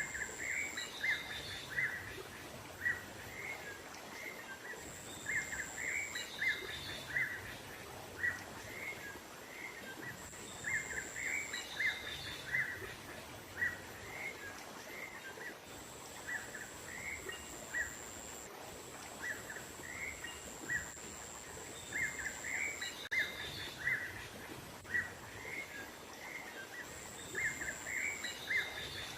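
Small songbirds giving bird-lure (pikat) calls: quick clusters of short, high chirps repeating every second or two. A thin, steady high whine comes and goes over an outdoor background hiss.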